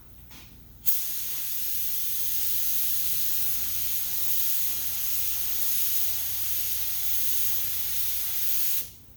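Paint spray gun spraying lacquer primer at low air pressure, about 15 to 17 psi: a steady hiss that starts sharply about a second in and cuts off near the end, one continuous pass.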